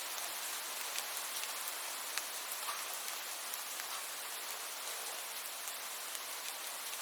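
Steady rainfall: an even hiss of rain with many scattered sharp ticks of single drops landing.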